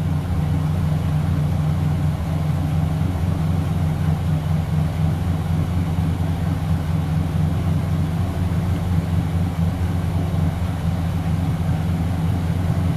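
Twin carbureted boat engines idling steadily at the dock, warming up after sitting unused.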